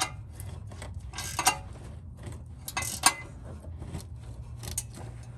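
Hand tools working on exhaust bolts: a wrench and metal parts clicking and clinking in short clusters, about every one and a half seconds.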